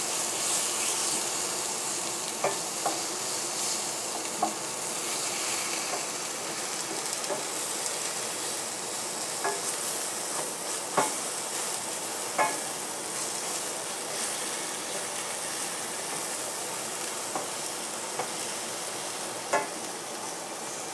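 Chicken pieces sizzling steadily in hot oil in a frying pan, with a handful of sharp clicks at irregular moments as a utensil knocks the pan while tossing them.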